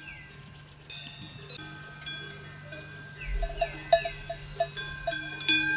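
Metal bells clanking and ringing irregularly, many strikes with ringing tails, thickest in the second half.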